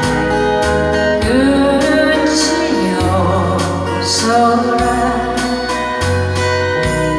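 A singer's voice carrying a slow melodic phrase over an instrumental backing of sustained keyboard chords, a bass that moves note by note, and guitar strums. The voice drops out about two seconds before the end, leaving the accompaniment.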